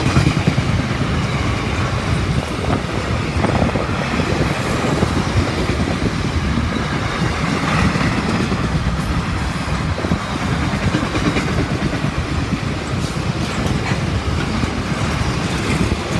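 Long freight train of box wagons rolling past, a steady rumble of steel wheels on the rails with light clatter.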